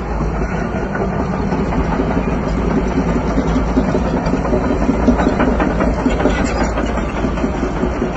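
A bulldozer's diesel engine running steadily, with a stretch of irregular clatter through the middle.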